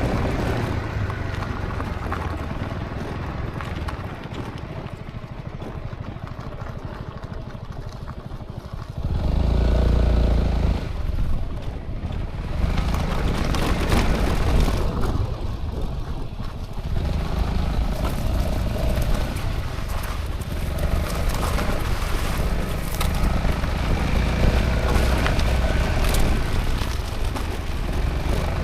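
Honda ADV350 maxi-scooter's single-cylinder engine running under way, with road and wind noise. It gets suddenly louder about nine seconds in and rises and falls after that.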